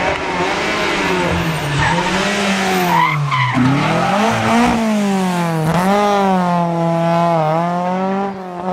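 Historic rally car engine being driven hard on a stage, its pitch wavering with the throttle, dipping sharply about three seconds in, then rising again and holding high with small wavers.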